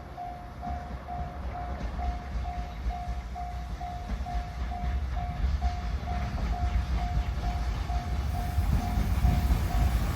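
Freight train approaching, its low rumble growing steadily louder, while a warning bell rings at an even pitch about twice a second. The bell stops near the end.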